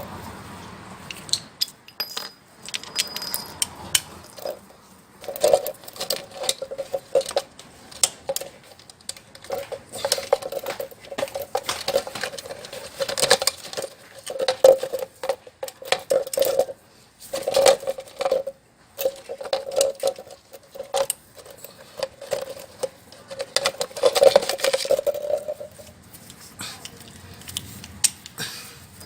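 Repeated metallic clicking and clinking of a 12mm socket wrench ratcheting on the gear-case drain bolt of a GY6 150cc scooter, in bursts of strokes as the bolt is loosened.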